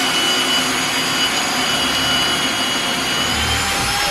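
Power drill running steadily at high speed, drilling a hole through the wood framing for electrical wiring, its whine holding one pitch and then winding down as it stops near the end.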